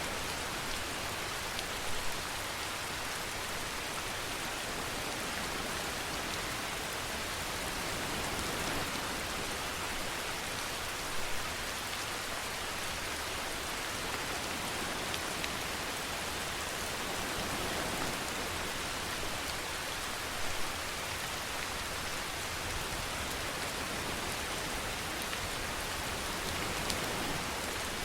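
Steady rainfall: an even hiss of rain falling on a surface, with a few brief louder drop hits now and then.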